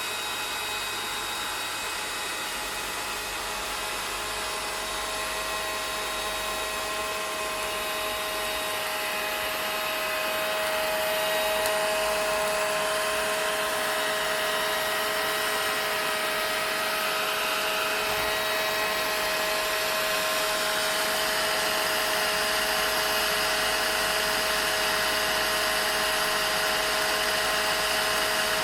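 Vacuum cleaner running steadily: a motor whine with a few steady tones over a rush of air. It grows slightly louder about ten seconds in, then holds.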